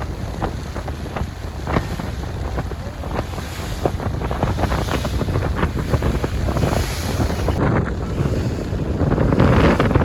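Wind buffeting the microphone aboard a moving river tour boat, a steady rushing noise of the boat and water with crackles of wind through it, gusting louder near the end.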